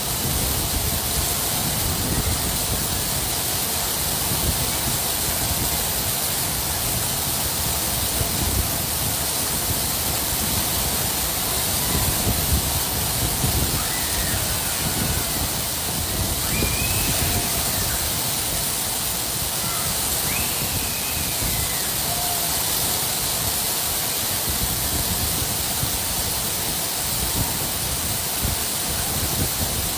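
Rain falling steadily, with a few faint high chirps near the middle.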